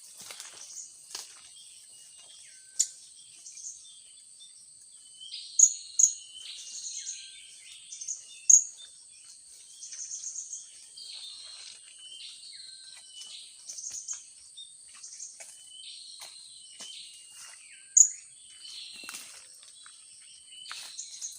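Blue-crowned hanging parrots (serindit) giving repeated short, sharp, high-pitched chirping calls; the loudest come about 3, 6, 8.5 and 18 seconds in. Under them runs a steady high-pitched buzz of insects.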